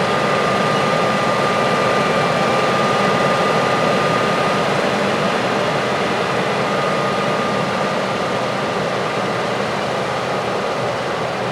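Heavy farm harvest machinery running steadily: a diesel engine's drone with a steady high whine over it.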